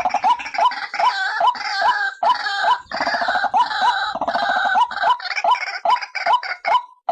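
White-breasted waterhens calling: a steady series of repeated hooked notes, about three a second, with a harsh, overlapping chorus of croaking calls over them.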